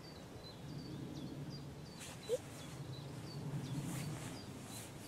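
A small bird chirping repeatedly in short, high, slightly falling notes, a few a second, over a low steady outdoor background noise.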